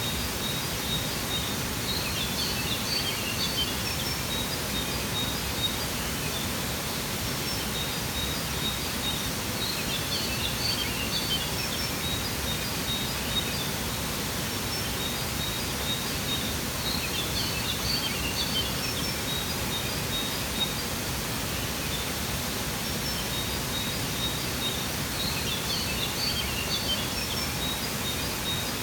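Steady rushing water of a waterfall with bird song over it: a short phrase of high chirps comes back about every seven to eight seconds, four times, each time after a brief string of evenly repeated high notes.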